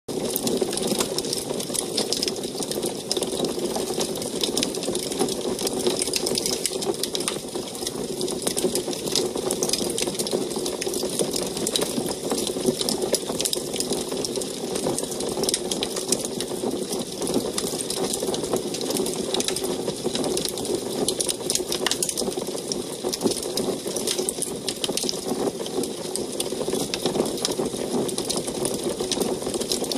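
Wood fire crackling in an antique wood stove: a dense, continuous run of small pops and snaps over a steady low rush.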